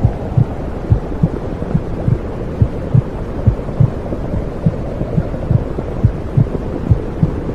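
Womb sound: a steady heartbeat thumping about two times a second over a low, even rushing noise, made to soothe a baby.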